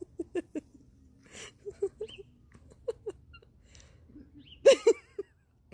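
A dog yipping and whimpering in short, quick bursts, a few at a time, with the loudest group near the end.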